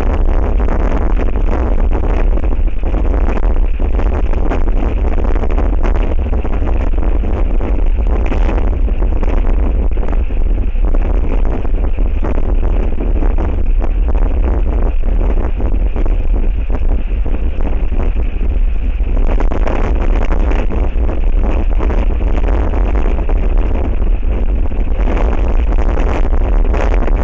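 Strong wind buffeting the microphone: a loud, unbroken low rumble with a rushing hiss over it.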